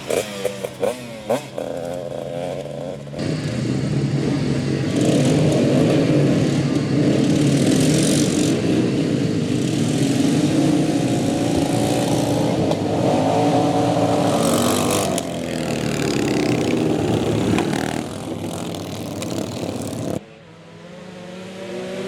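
Several motorcycle engines revving and accelerating at once, loud and dense from about three seconds in. The sound cuts off abruptly near the end, leaving a quieter single engine that rises in pitch.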